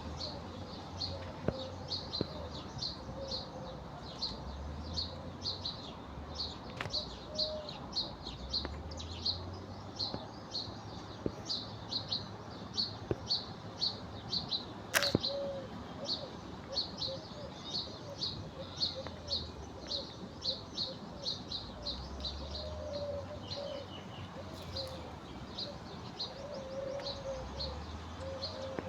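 A small bird chirping over and over, short high chirps about two to three a second without a break, with a fainter lower warbling call in the background and one sharp click about halfway through.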